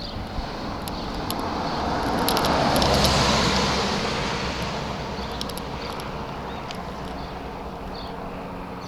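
A car passing by on the road, its noise swelling to a peak about three seconds in and then fading away.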